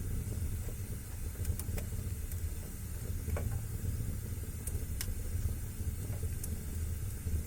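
Wood fire burning in a fireplace: a steady low rumble of flames with scattered sharp crackles, and a brief falling hiss about three seconds in.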